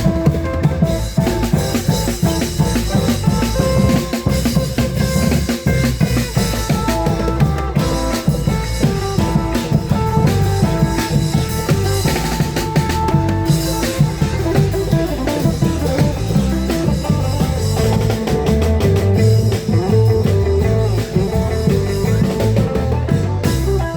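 Klong yao long-drum band playing Isan procession music: steady drumming with a plucked-string melody over it.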